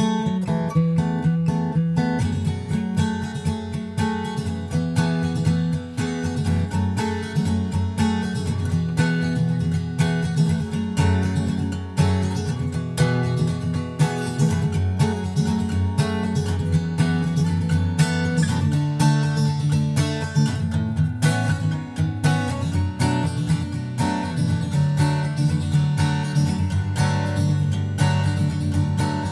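Background music: a strummed and plucked acoustic guitar arrangement.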